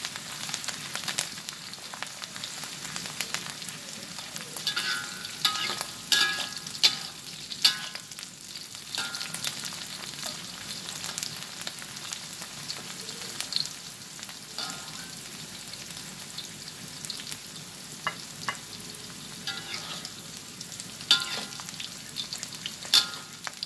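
Sliced green chillies sizzling in hot oil in a wok as they are fried until they begin to wilt. A metal spatula stirs them, scraping and clinking against the pan, with clusters of sharp clinks about five to eight seconds in and again near the end.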